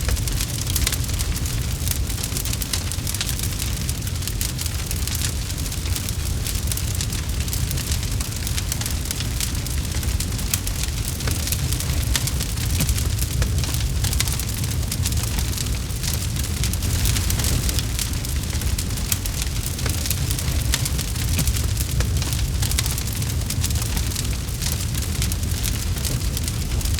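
Campfire burning steadily, with a dense run of small crackles and pops over a low rumble.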